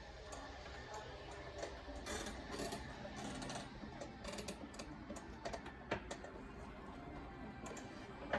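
Store background noise with scattered light clicks and knocks, one sharper knock about six seconds in.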